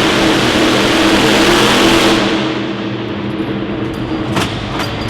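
A pulling vehicle's engine running hard under load. A little over two seconds in its high end falls away and it gets quieter, leaving a lower engine sound, with a couple of faint clicks near the end.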